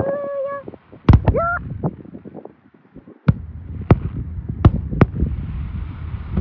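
Aerial fireworks going off: about six sharp bangs spread over several seconds, over a low crackling rumble. A short honk-like call trails off in the first half-second.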